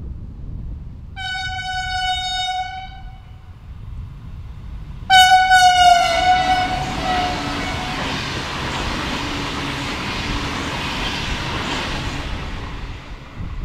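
V/Line VLocity diesel railcar sounding its horn twice, a shorter blast and then a louder, longer one, as it nears track workers beside the line. The blasts are followed by the steady rush and rumble of the train passing at speed.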